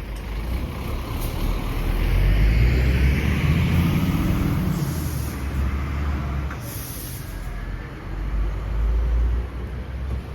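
A heavy road vehicle's engine rumbling close by, rising in pitch for a few seconds, with short air hisses partway through. Low rumble of wind on the microphone runs under it.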